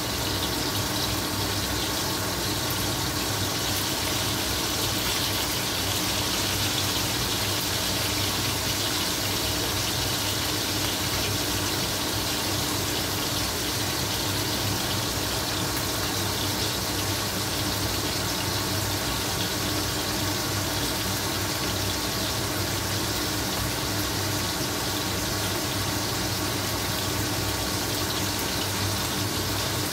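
Marinated pork pieces deep-frying in hot oil in a wok: a steady sizzle.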